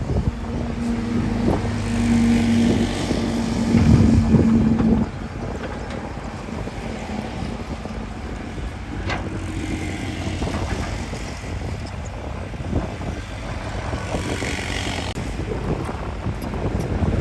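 Engine of heavy earthmoving machinery running with a steady hum that drops off about five seconds in, with wind buffeting the microphone throughout.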